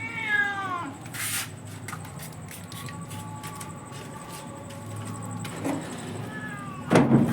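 An injured cat meowing: one falling meow at the start, a faint drawn-out call in the middle and another short meow near the end. A loud rattling clatter breaks in just before the end.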